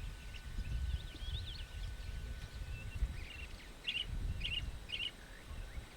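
Small birds chirping in short thin calls: a scatter of quick chirps about a second in, then three short chirps about half a second apart around the fourth to fifth second, over a low rumbling background noise.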